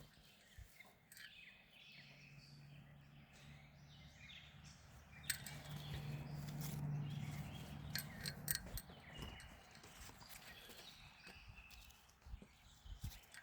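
Faint irregular clicks and knocks of someone moving about and handling plants, with a faint steady low hum from about two to eight and a half seconds in.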